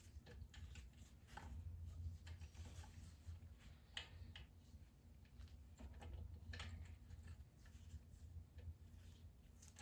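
Near silence with a low steady hum, broken by a few faint clicks and taps of engine parts being handled and fitted during an air-cooled VW engine rebuild.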